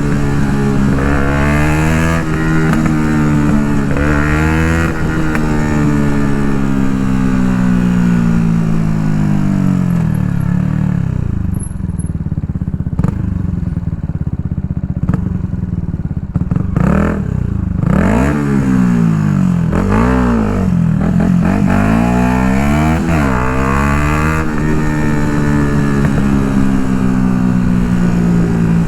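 2016 Yamaha MT-125's single-cylinder four-stroke engine, breathing through an Akrapovic full exhaust system, under way on the road. It accelerates through the gears with three quick rises in pitch, then slows in one long fall of revs. Near the middle it swings up and down in several short bursts before easing off again.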